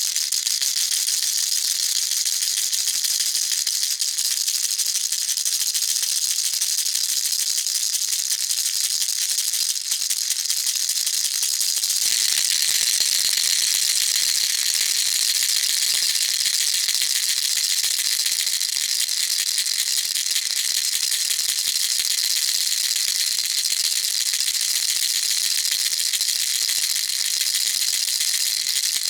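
Baby rattle shaken continuously: a dense, steady, high-pitched rattling of small loose pieces. About twelve seconds in, the texture changes slightly and the rattling gets a little louder.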